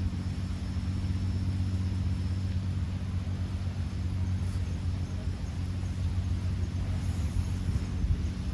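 A steady low engine hum that holds one pitch throughout.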